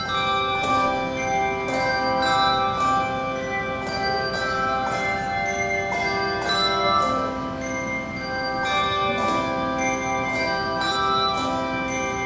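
Handbell choir playing a tune: many struck bell notes, several at a time, each ringing on and overlapping the next.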